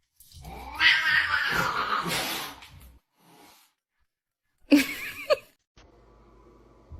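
A domestic cat giving a long, harsh yowl of about two and a half seconds, then a short, sharper cry about five seconds in.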